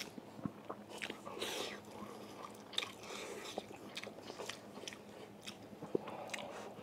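A man chewing and biting a mouthful of chicken and rice: quiet, wet mouth sounds with a few small sharp clicks scattered through.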